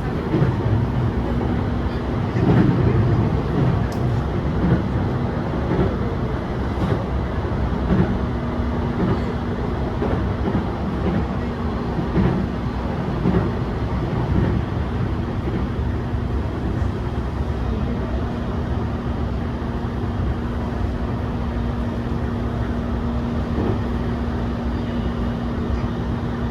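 Steady running noise of a Yokosuka Line commuter train heard from inside the passenger car: wheels on rail with a steady low hum and a few louder swells.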